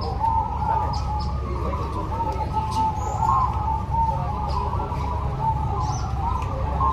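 Many zebra doves (perkutut) cooing at once, their short pitched calls overlapping continuously. Brief high chirps from small birds come and go over a steady low background rumble.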